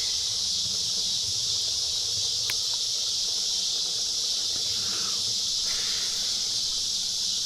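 Cicadas droning in a steady, high, hiss-like chorus that does not let up, with a single sharp click about two and a half seconds in.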